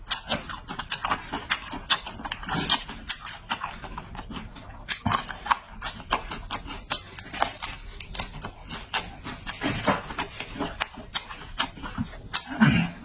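Close-miked eating: chewing and lip-smacking, a quick, uneven run of short mouth clicks, with a few louder, fuller mouthfuls along the way.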